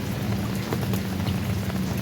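Steady rain falling, individual drops ticking against surfaces over a continuous hiss, with a steady low rumble underneath.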